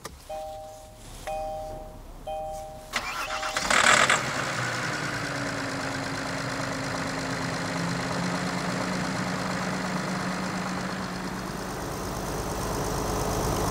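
A dashboard chime beeps three times, then the Kia Mohave's V6 diesel cranks and fires with a short, loud rattling burst and settles to a steady idle. The start-up noise sounds more like combustion knock (detonation) from all six injectors firing at once than a timing-chain rattle, which the mechanic puts down most likely to high starting fuel pressure.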